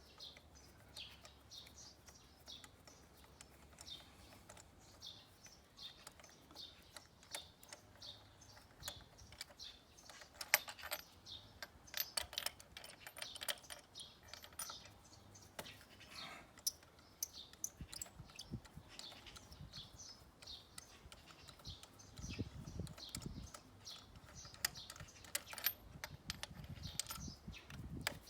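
Faint metallic clicks and taps from a 16 mm spark plug socket wrench being worked on the Opel Astra G's spark plugs, densest about ten to fourteen seconds in. Birds chirp throughout, about two short chirps a second.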